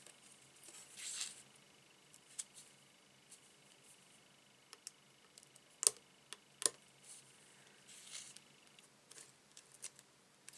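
Quiet handling of small craft pieces on a desk: soft rustles and light scattered clicks, with two sharper clicks about six seconds in.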